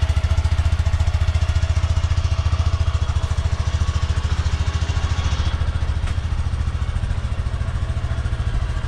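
Honda Grom 125's single-cylinder four-stroke engine idling steadily through its stock exhaust, an even, rapid putter that is super quiet.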